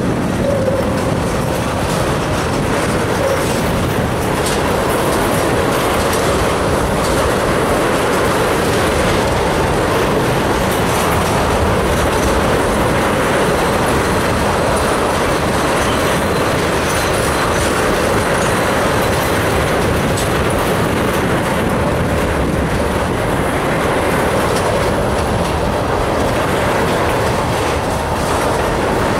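Empty railroad tank cars rolling steadily past close by, their steel wheels clattering over the rail joints in a continuous clickety-clack.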